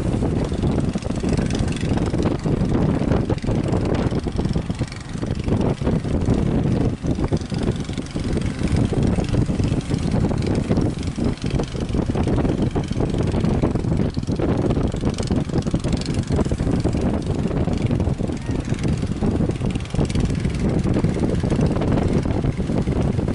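A boat engine running under heavy wind buffeting the microphone in a strong wind.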